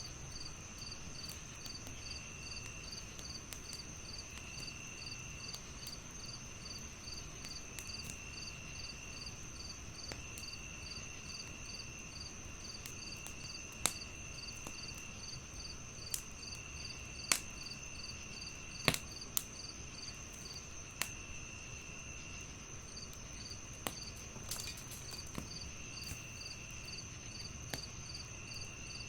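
Crickets chirping steadily. One gives a high continuous trill, another a pulsing chirp about three times a second, and a lower trill comes and goes every second or two. A wood fire crackles underneath with scattered sharp pops, the loudest a little past the middle.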